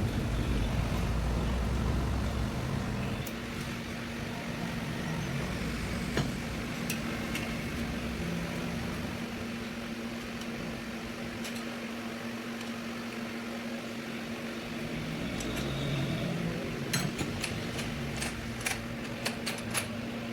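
Steady mechanical hum with a low vehicle rumble that fades about three seconds in, and scattered sharp metallic clicks, like tools and parts knocking during tractor gearbox work, several in quick succession near the end.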